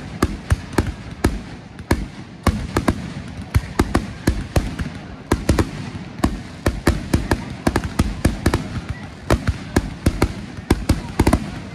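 Aerial fireworks going off in a rapid barrage: several sharp bangs a second from bursting shells, with crackling between them.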